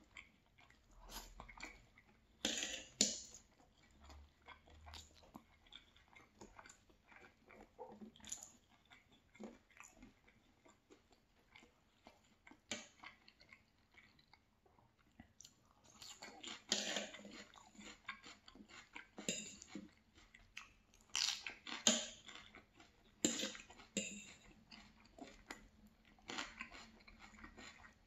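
Close-up chewing and crunching of a meal of fried fish fillet, rice and salad, in irregular bites that come thicker and louder about halfway through.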